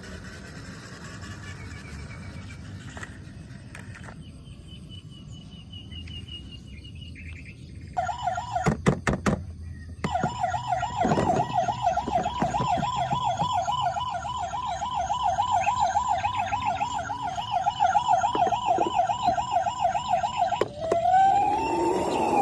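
Electronic siren of a battery-powered toy vehicle, a fast warbling tone that wavers several times a second, coming on about eight seconds in after a few clicks. Near the end it changes to a slower rising and falling wail.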